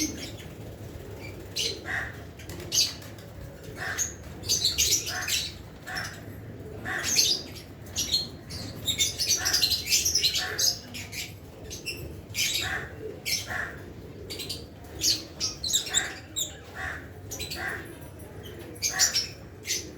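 A flock of lovebirds chirping and squawking: many short, sharp calls overlapping at irregular intervals, thicker in some stretches than others.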